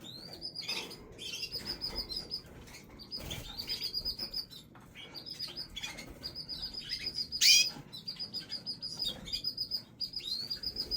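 Domestic canaries chirping and calling, with repeated quick trills and one louder rising call about two-thirds of the way through.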